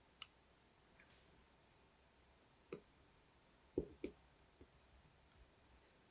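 A few small, sharp clicks of watchmaker's tools against the parts of a Zenith 2562PC automatic watch movement being taken apart, the loudest a quick double click about four seconds in, over near silence.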